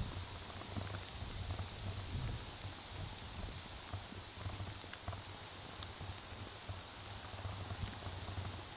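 Steady patter of light rain: an even hiss with many small scattered drop ticks and a low steady rumble beneath.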